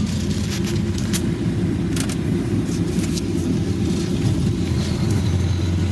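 Sander truck's engine running steadily as it drives slowly, a low rumble with scattered light clicks and rattles over it.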